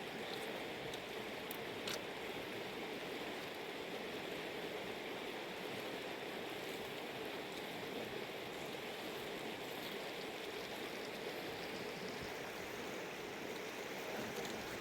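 Mountain river water flowing steadily, with a small click about two seconds in.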